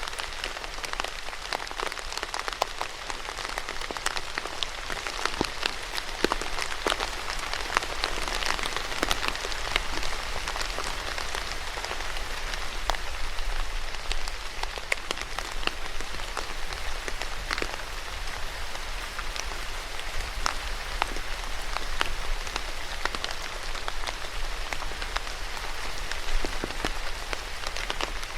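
Steady rain falling on a surface, an even hiss dotted with many individual drops ticking.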